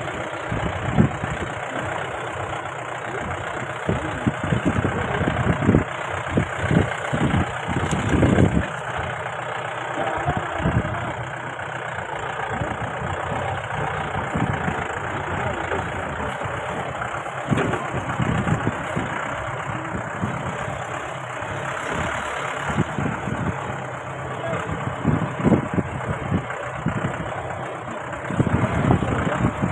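Mahindra Bolero's engine running as the SUV drives a rough off-road hill track, with irregular low thumps and jolts throughout.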